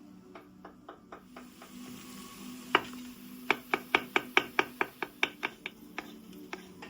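Knife chopping on a cutting board: a few light strikes, one hard strike near the middle, then a quick even run of about five strikes a second.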